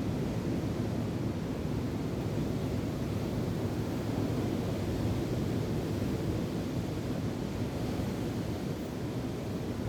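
Wind and surf: a steady low rush of noise with no distinct events, with wind blowing across the microphone.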